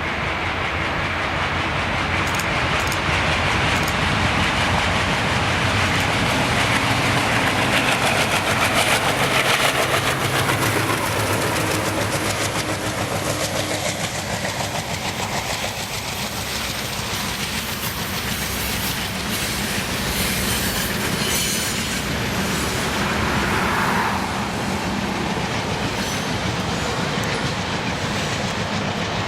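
Two MLW M636 diesel locomotives, each with an Alco 251 V16 engine, working hard under throttle as a heavy freight train climbs a grade, with wheels clacking over the rail joints as the train rolls past.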